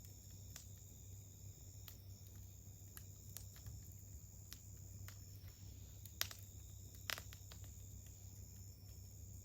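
Faint campfire crackling, with scattered small snaps and two sharper pops about six and seven seconds in, over a steady high-pitched chorus of crickets.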